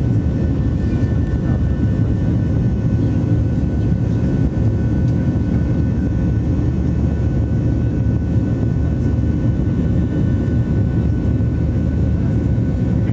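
Boeing 737NG's CFM56-7B jet engines and airflow heard inside the cabin: a loud, steady drone, mostly low with a few faint steady tones above it.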